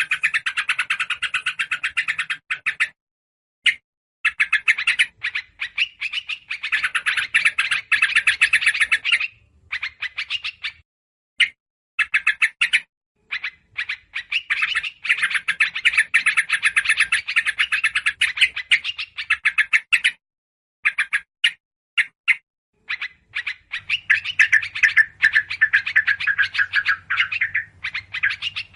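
Agitated chattering of yellow-vented bulbuls and other small songbirds, played as a bird-lure call: fast runs of short, sharp notes in long bursts broken by brief pauses.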